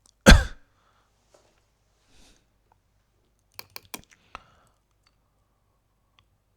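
A short loud burst just after the start, then a quick run of about five computer mouse clicks around four seconds in.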